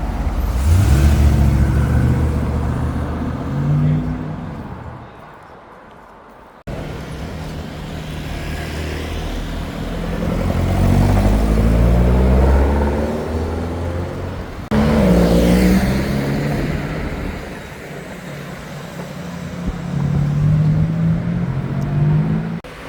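Car engines accelerating and revving as cars drive past, in three short clips joined by abrupt cuts, the engine note rising and falling in pitch.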